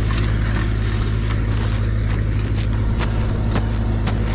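Snowblower engine running steadily at a constant speed, with several short knocks and clicks over it.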